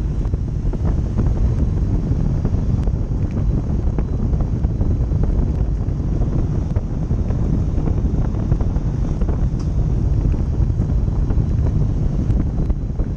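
Car driving along a dirt forest track: a steady low rumble with scattered small ticks.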